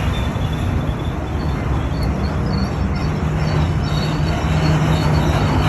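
Freight train of autorack cars rolling past: a steady rumble of steel wheels on rail, with a low steady tone joining about halfway through.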